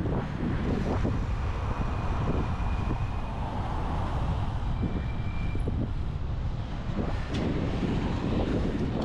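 Wind rumbling steadily on the microphone of a camera carried on a moving bicycle.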